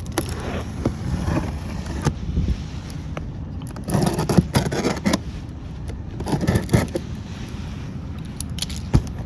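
A cardboard box being opened by hand: irregular scraping, rustling and knocking as flaps and packing are pulled, with busier handling about four seconds in and again near seven seconds.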